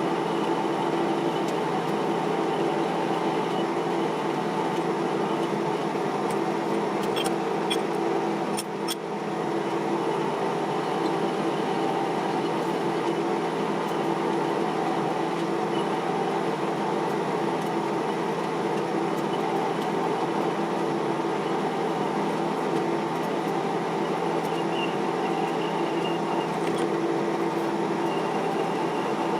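Metal lathe running steadily: an even machine hum with several steady tones, briefly dipping with a few clicks about eight to nine seconds in.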